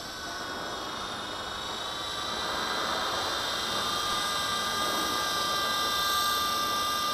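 Electric RC helicopter (V913) hovering: a steady high-pitched motor whine over the whir of the rotor blades, getting a little louder about two seconds in.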